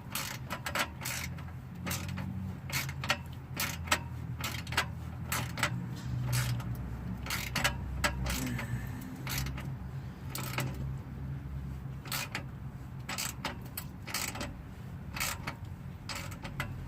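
Irregular metallic clicks and clanks of hand tools working an exhaust pipe clamp tight to seal an exhaust leak, with a low steady hum underneath.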